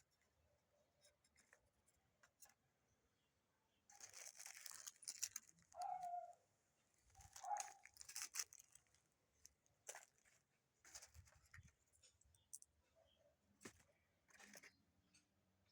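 Faint rustling and scraping handling noises in two short spells, with scattered light clicks and a few brief squeaky calls in between.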